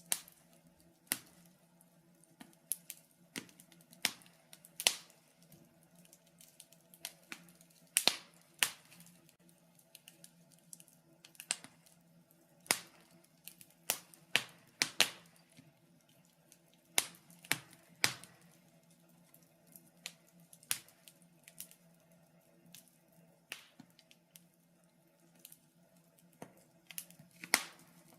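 Wood fire crackling in a fireplace: irregular sharp pops and snaps, a few a second, some louder than others. A faint steady hum sits underneath.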